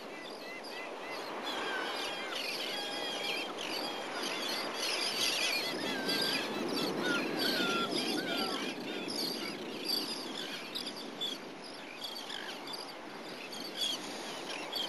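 Many birds chirping and calling over a steady outdoor background rush.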